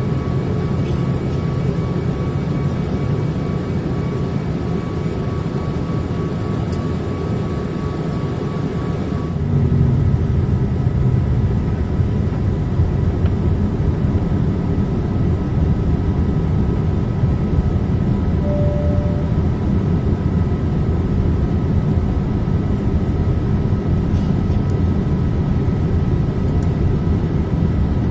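Steady cabin noise inside a Boeing 787-8 Dreamliner in flight: a low roar of airflow and engines with faint steady tones. About nine seconds in, the roar steps up slightly and one high tone drops out.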